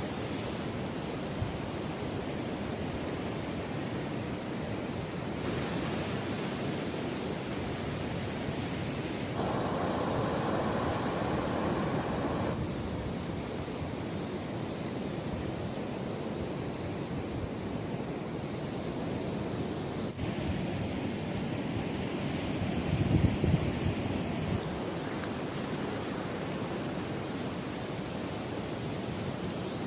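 Steady wash of surf and wind on a beach, with a low rumble of wind buffeting the microphone about three quarters of the way through.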